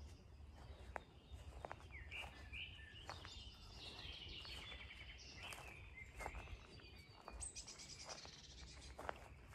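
Birds chirping and calling in short bursts over a faint outdoor background, with a few soft clicks.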